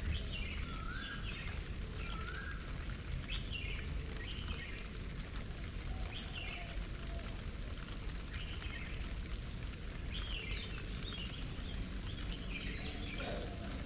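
Garden birds calling: short chirps repeated every second or so, with a few short rising whistled notes in the first two seconds. A steady low rumble runs underneath.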